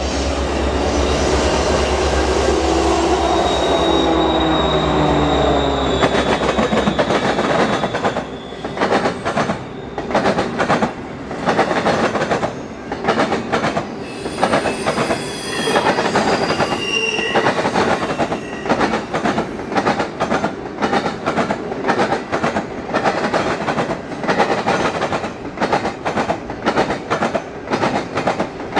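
Intermodal freight train passing at speed: the single six-axle EMD diesel locomotive's engine drones by with its pitch falling in the first few seconds. Then the cars follow with a fast, steady clickety-clack of wheels over rail joints and brief high wheel squeals.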